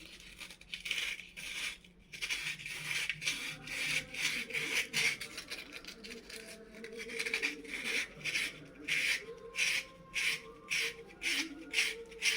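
Rhythmic hand rubbing or scraping strokes, uneven at first, then settling into an even rhythm of about two to three strokes a second from about three-quarters of the way in.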